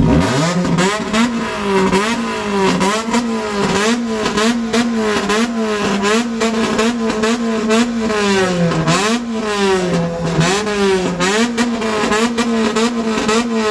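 Car engine revved up sharply and held at high revs with straight-through exhaust loudness, the revs dipping and climbing back again and again over a stream of sharp cracks, then falling off near the end.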